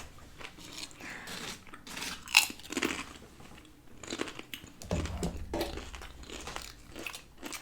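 Close crunching and chewing of crisp fried tortilla eaten with shrimp aguachile, in irregular crunches one after another.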